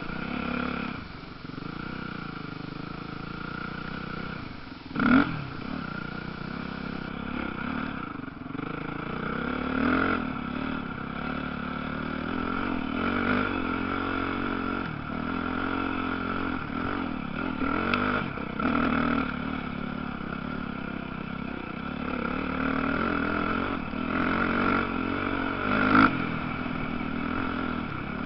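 Motocross dirt bike engines revving and changing pitch around the track, with sudden louder moments about five seconds in and again near the end.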